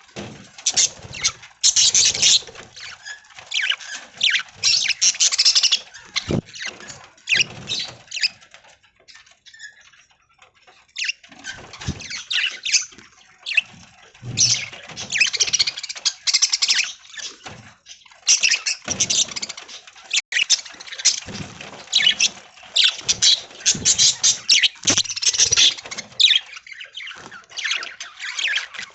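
A group of budgerigars chattering and chirping in quick, irregular bursts, with a brief lull partway through and an occasional sharp knock.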